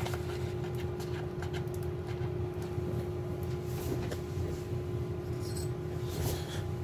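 Faint clicks and rustles of a small product box and its packaging being handled, over a steady hum.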